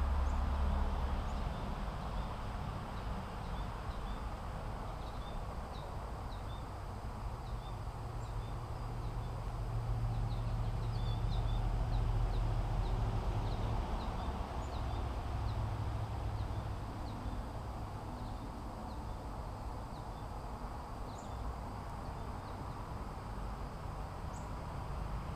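Outdoor ambience: a steady low rumble and hiss with many faint, short, high-pitched chirps scattered throughout, thickest in the middle.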